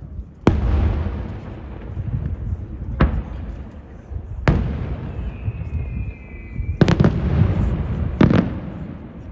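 Aerial fireworks shells bursting: five loud bangs in about nine seconds, each followed by a rolling echo. A faint whistle sounds between the third and fourth bangs.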